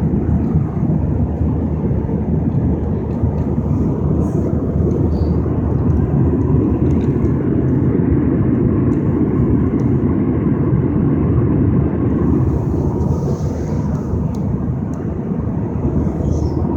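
Loud, steady rumbling roar of a jet airliner's engines and airflow, heard from inside the passenger cabin.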